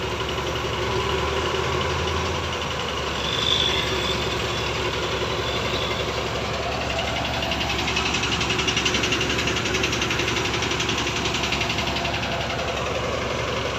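Heavy crane's engine running steadily while it slews and lifts a concrete girder, working a little harder for a few seconds in the later half.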